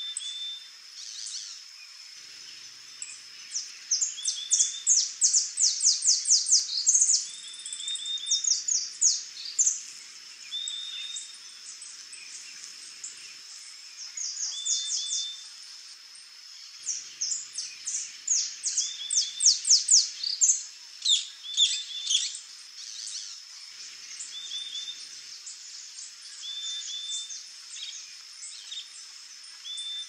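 Birds singing: bursts of rapid high chirps, loudest twice, with a short repeated note every few seconds, over a steady high-pitched hum.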